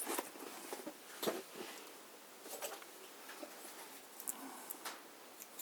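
Faint, scattered light clicks and rustles of thread and small parts being handled at a sewing machine.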